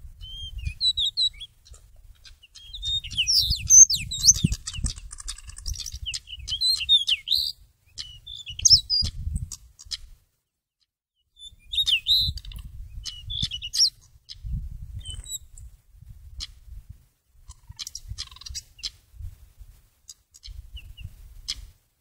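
A magpie-robin giving bursts of sharp chirps, short whistles and clicks, in clusters that break off for about a second midway and then pick up again. Low rumbling noise comes and goes underneath.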